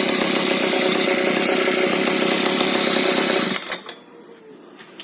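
DGM BM-331 outboard boat motor running steadily out of the water with a homemade muffler fitted, then shutting off about three and a half seconds in.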